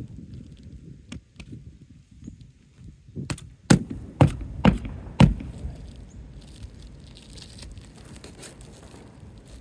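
Roof work on asphalt shingles: a run of five sharp knocks about half a second apart, a little past a third of the way in, over low rustling of the shingles being handled.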